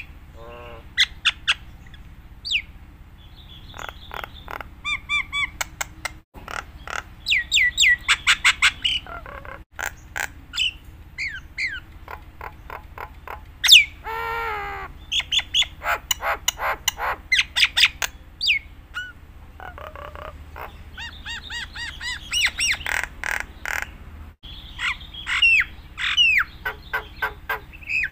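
Jalak Nias in full, varied song: quick runs of clear whistles and chirps that sweep up and down, mixed with harsh squawks. A loud, harsh squawk comes about halfway through, and a steady low hum runs beneath.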